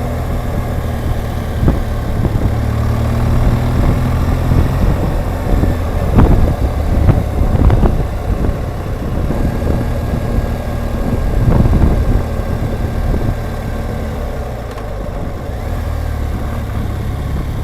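BMW R1200GSA boxer-twin motorcycle engine running steadily under way, with road and wind noise. A few thumps come in the middle.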